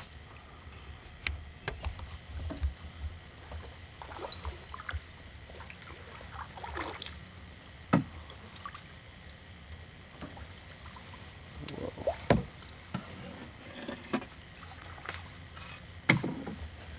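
Canoe being paddled: paddles dipping and swishing through the water, with a few sharp knocks scattered through.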